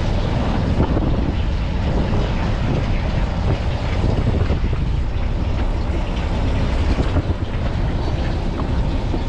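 Steady low rumble of a fishing boat at sea: the engine running, with wind noise on the microphone.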